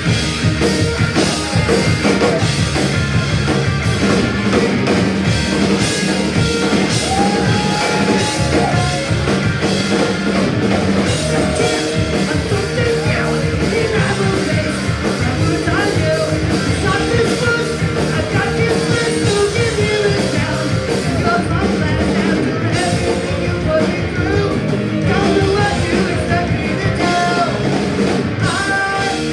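Punk rock band playing live at full volume: drum kit, guitars and sung vocals.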